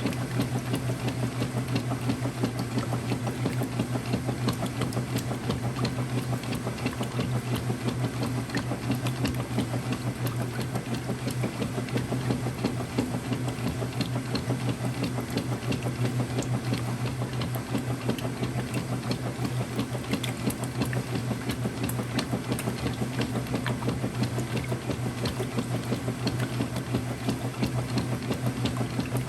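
Early-2000s Whirlpool direct drive washer running, with a steady motor hum and a fast, even mechanical chatter.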